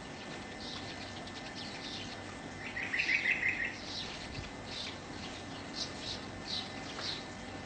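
Birds chirping: a short high call repeated about twice a second, with a louder, quicker run of notes lasting about a second about three seconds in, over a steady background hiss.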